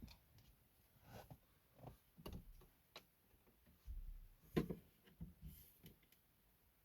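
Faint, irregular clicks and knocks of plastic car dashboard trim being pried and handled with a tool, the loudest knock about four and a half seconds in.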